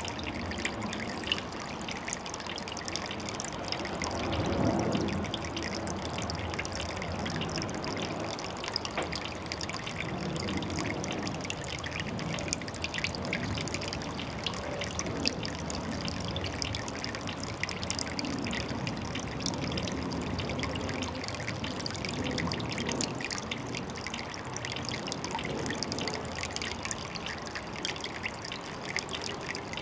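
Water trickling and splashing steadily, with a brief louder surge about four seconds in.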